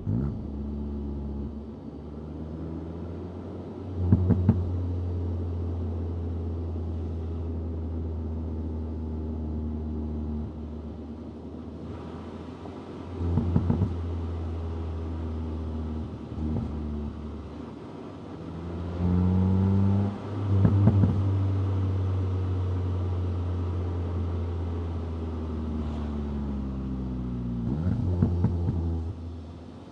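Stock VW Golf GTI 8.5's 2.0-litre turbocharged four-cylinder engine driving in traffic. Its note climbs under acceleration and drops at each upshift, with steadier cruising stretches between. Short sharp cracks come at several of the gear changes.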